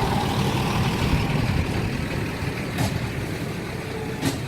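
Isuzu FR 240 turbo-intercooled six-wheel dump truck's diesel engine running steadily under way. Two short sharp clicks come in the second half.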